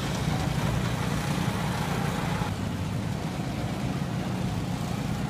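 Steady low drone of a running vehicle engine with road or travel noise, unchanging throughout.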